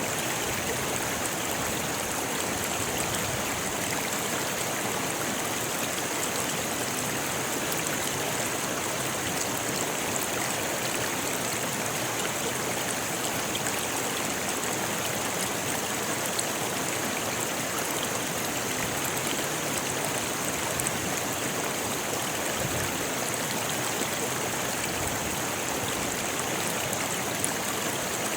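A rocky river rushing steadily over stones, a constant even wash of water noise with a bright hiss.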